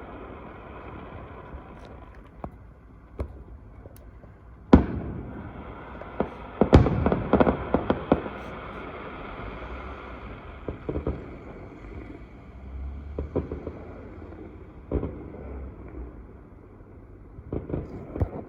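Fireworks going off: scattered bangs, the loudest about five seconds in, then a quick run of crackling cracks, with single pops now and then after it.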